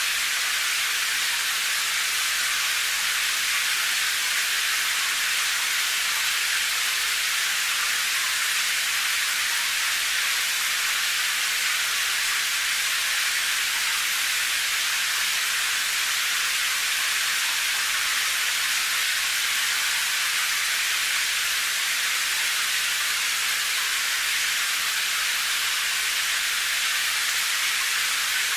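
Steady rain, an even hiss with no single drops or changes standing out.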